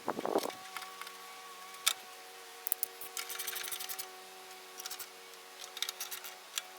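Hand tools working on small mower parts: scattered light metallic clicks and taps, with a run of rapid clicking about three to four seconds in, over a steady background hum.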